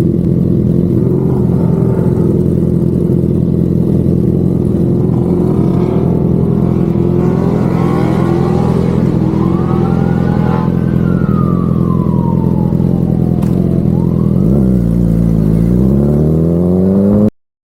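Motorcycle engine running steadily, with a police siren wailing up and down over it from about halfway through. Near the end the engine drops in revs and climbs back up, then the sound cuts off abruptly.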